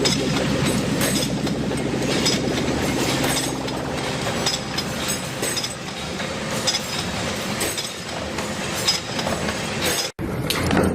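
Metalworking machinery running, with frequent sharp metallic clinks and clicks over a steady mechanical din. The sound cuts out for a moment near the end, then resumes.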